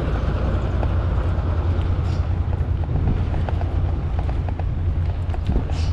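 Wind buffeting the microphone and the bicycle rolling along, with scattered light clicks and rattles from the bike.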